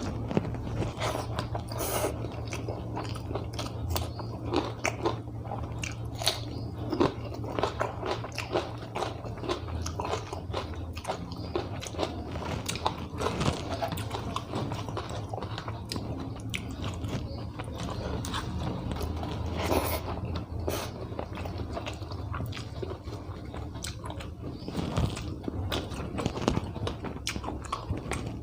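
Close-up sounds of a person chewing and biting food eaten by hand, many small wet clicks and some crunchy bites throughout, over a low steady hum.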